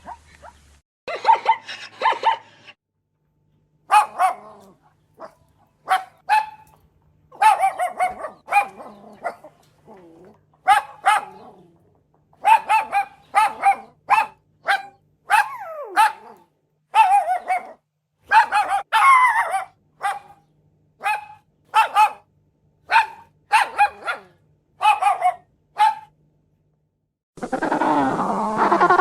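A dog barking repeatedly in short, high-pitched yaps, some sliding into whines. Near the end, after a brief pause, a different continuous pitched call begins.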